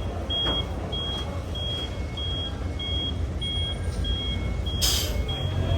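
Vehicle reversing alarm beeping steadily, about one and a half high beeps a second, over a low engine rumble, with a short hiss near the end.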